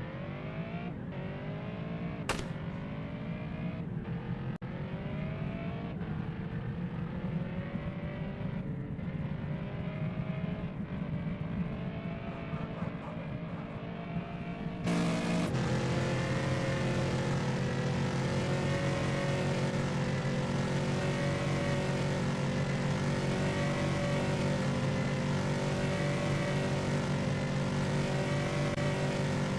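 RAM pickup truck accelerating hard: the engine's pitch climbs steadily, dipping briefly at a few upshifts. About halfway through the sound suddenly turns louder, a steady engine drone under heavy rushing wind and road noise at high speed.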